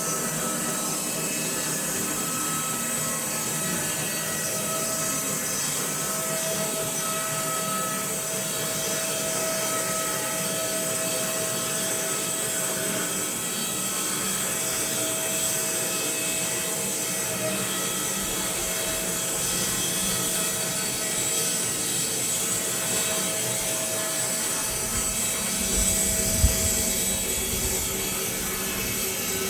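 Woodlands Mills HM126 bandsaw mill running steadily, its blade sawing through a log, with a single sharp knock about 26 seconds in.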